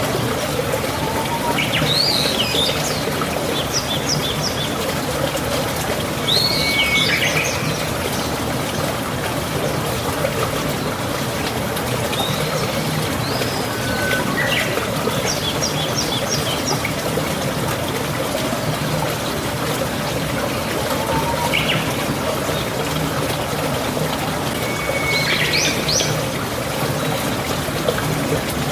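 Water rushing steadily, with a bird calling over it in short phrases of whistles and quick chirps, about five times.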